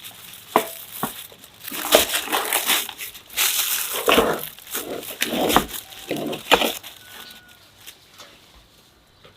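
Rustling and crinkling handling noise in a series of irregular bursts, dying away over the last couple of seconds.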